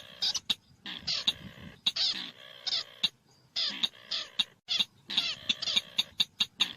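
Chàng nghịch (a shrike) singing a harsh, chattering song of short scratchy notes and quick sweeps. Near the end it runs into a rapid even series of sharp clicking notes, several a second.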